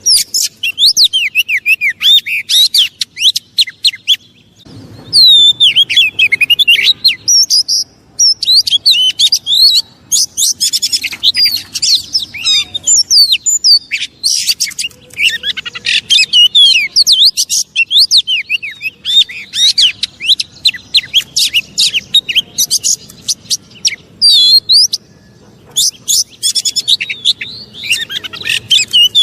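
Oriental magpie-robin (kacer) singing in an agitated, aggressive way: a loud, rapid run of sharp whistles and chattering notes, with a few brief pauses.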